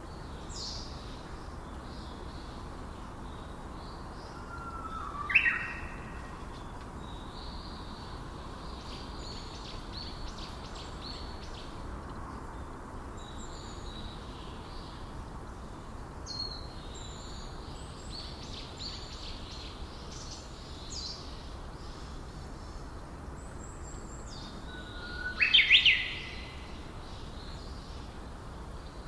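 Forest birds calling: many short high chirps and twitters throughout, with two louder calls, each a short lower note snapping up into a sharp high one, about five seconds in and again near the end. A steady low background rush runs underneath.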